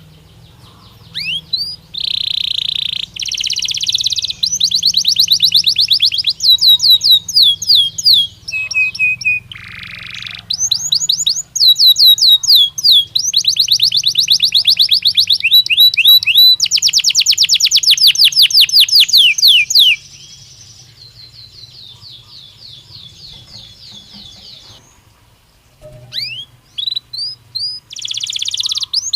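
Belgian canary singing a long song of fast trills and rolls, each made of quickly repeated high notes. The song goes soft for a few seconds about two-thirds of the way through, then loud trills return near the end.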